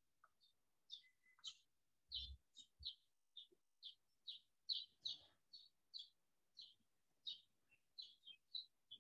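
A small bird chirping over and over, faint short high chirps about two a second, with a soft low thump a little over two seconds in.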